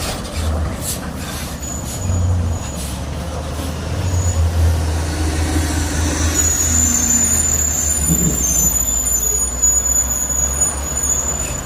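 Heavy tractor-trailer trucks passing on a steep downhill, their diesel engines giving a deep, uneven rumble. A thin, high, steady whistle comes in about halfway through and holds.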